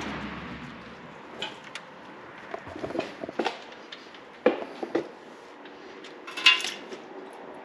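Scattered light clicks and knocks of a metal oil drain plug being worked loose by hand under a car, with one louder, ringing metallic clink about six and a half seconds in.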